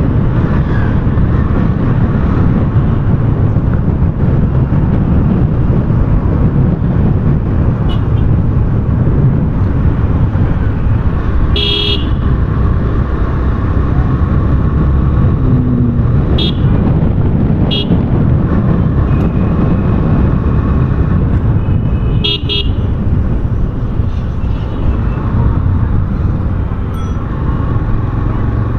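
Motorcycle riding through city traffic: a steady low rumble of engine, road and wind. Several short vehicle horn toots cut through it near the middle, one of them a quick double toot.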